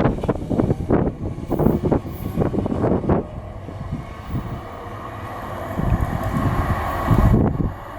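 Merseyrail electric multiple unit train moving through the station, its wheels clattering loudly for about the first three seconds, then fainter with a steady whine. Wind buffets the microphone near the end.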